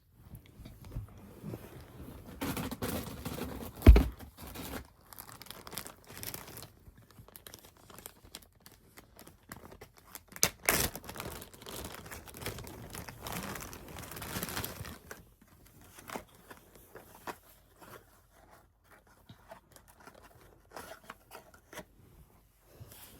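Plastic snack packaging being crinkled and torn open in irregular rustling bursts, with a sharp knock about four seconds in and another loud rustle near the middle, growing sparser in the second half.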